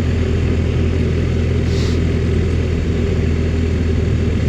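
Motorcycle engine running at a steady cruising speed, with a constant rush of wind and road noise.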